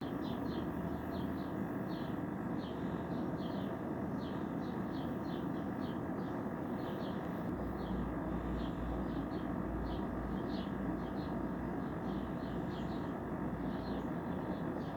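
Sparrows chirping, short chirps repeated two or three times a second, over a steady background rumble that deepens for a few seconds about halfway through.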